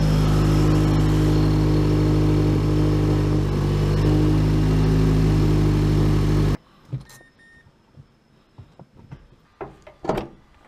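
Mazdaspeed6's turbocharged 2.3-litre four-cylinder engine idling steadily, just restarted after a compression test. About six and a half seconds in the engine sound cuts off suddenly, leaving a few light knocks and clicks, the loudest near the end.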